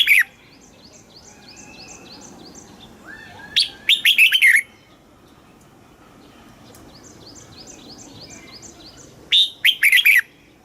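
Red-whiskered bulbul song: a short, loud, warbling phrase of several quick notes three times, about every five seconds. Between the phrases comes a fainter, rapid series of high chirps, several a second.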